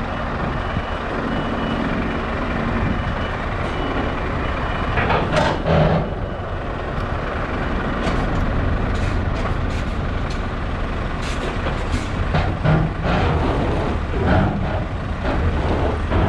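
Scania V8 truck engine running as the tractor reverses under a container trailer, with a reversing beeper pulsing for the first few seconds. Sharp clunks and knocks follow as the fifth-wheel jaws lock onto the trailer's kingpin, a clean coupling click.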